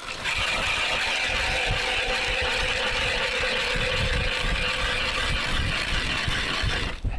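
Powered ice auger running steadily as it bores a hole through thick ice, with a constant whine; it starts abruptly and stops about seven seconds in.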